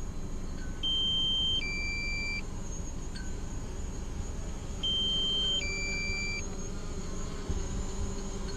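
An electronic two-tone warning beep: a higher note, then a lower one, each lasting under a second. It sounds about a second in and again about five seconds in, over a steady low rumble of wind.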